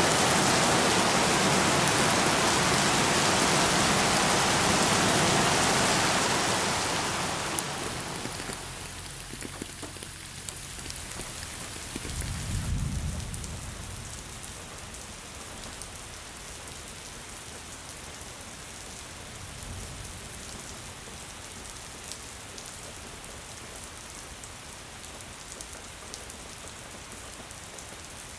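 Steady heavy rain that eases about a quarter of the way in to lighter rain with scattered drops. A brief low rumble of thunder comes near the middle, and a fainter one a little later.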